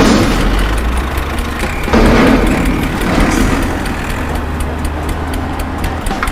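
A vehicle engine running with a steady low hum, growing louder about two seconds in.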